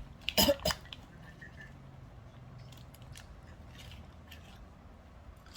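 A child handling and biting into a Sugus chewy candy: three sharp crackles close together about half a second in, then faint scattered clicks.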